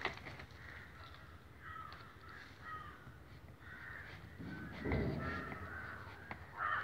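Repeated short bird calls, like a crow cawing, in the background, with a low muffled thump about five seconds in.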